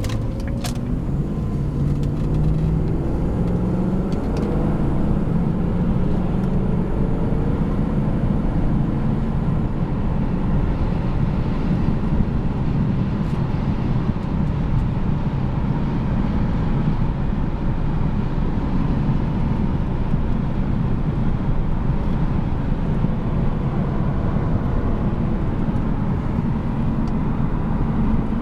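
1997 Jaguar XK8's 4.0-litre V8 pulling the car under acceleration, its pitch climbing over the first few seconds. It then settles into a steady drone with road noise as the car drives on.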